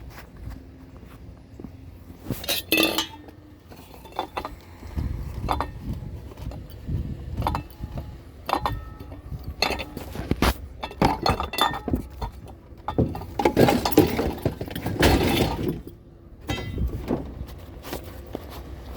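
A curbside bicycle being handled and moved, with irregular metal clanks, clinks and rattles, loudest in a cluster about two-thirds of the way through.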